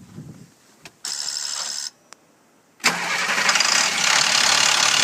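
International DT466 inline-six diesel in a 2007 International 4300 truck cranking for about a second and stopping. About three seconds in it fires and keeps running steadily. This is a cold-weather hard start, later traced to a faulty injector harness and worn high-pressure oil rail seals.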